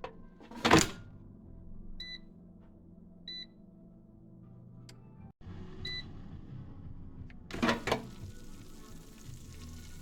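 Three short, high electronic beeps, about a second or two apart, like an appliance keypad being pressed. A loud knock comes about a second in and a loud clatter near the end, over a low steady hum.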